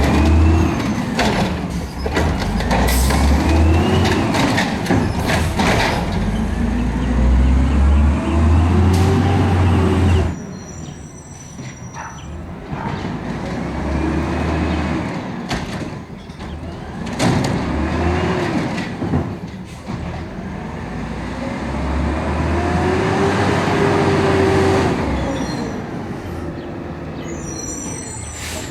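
Garbage truck engine revving up and falling back again and again, several times over, with scattered metallic knocks and clanks.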